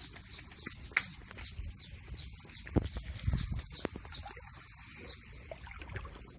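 Livestock hooves knocking on rocks as an animal walks: scattered sharp knocks, with faint high chirps repeating about three times a second.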